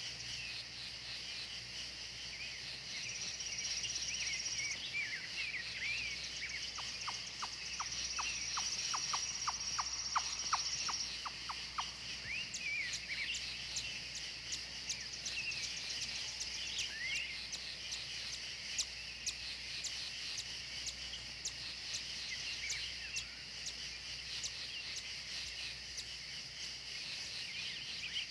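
Steady chorus of insects chirring, with scattered short bird chirps and whistles throughout. Two held high trills come in the first third, and a run of rapid clicking, about three a second, follows for several seconds.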